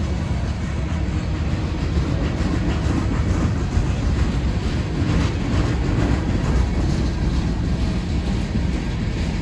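Eastbound mixed freight train rolling past on the rails, a steady rumble of wheels and cars.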